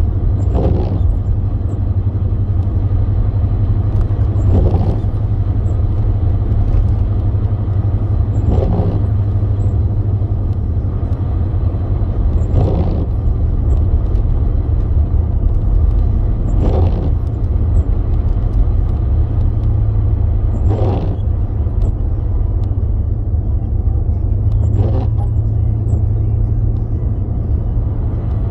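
Steady low road rumble inside a moving car's cabin. A short swish comes about every four seconds, the even beat of windshield wipers sweeping snow off the glass on an intermittent setting.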